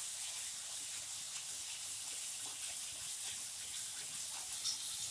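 Tomato-onion masala sizzling in oil in a non-stick kadhai on high flame while a spatula stirs it, a steady hiss: the gravy is being fried until its water dries off.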